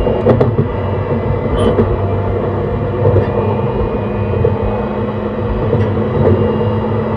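JR East E131 series electric multiple unit running at steady speed, heard from inside the car: a continuous rumble of wheels on rail with a few steady tones and occasional short clicks.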